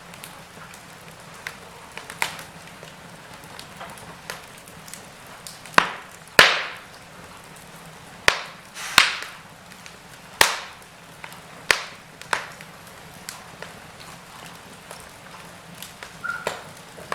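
Wood fire crackling in a fireplace: irregular sharp pops and snaps over a soft steady hiss, the loudest cracks bunched in the middle.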